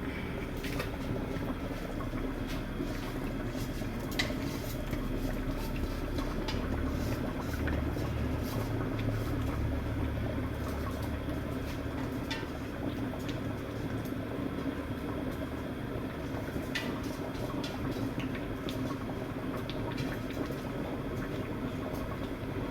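Large pot of water at a steady, bubbling boil, with rice par-boiling in it for biryani. A few faint clicks can be heard.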